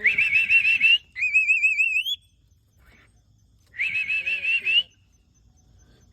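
Three short warbling whistles, each about a second long and rising at the end: a person whistling a trill and a female mynah bird copying it, the middle one cleaner and more pure-toned.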